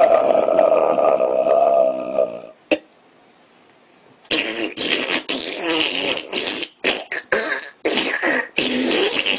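A man making strange vocal noises: one held, strained pitched tone for about two seconds, a click, a short pause, then a string of choppy, broken-up mouth noises.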